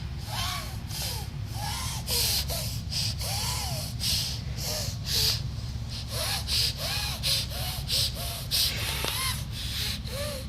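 Nose whistling: a run of short squeaky whistles, each rising and falling in pitch, about two a second, each with a breathy sniff or snort of air. A steady low hum underneath.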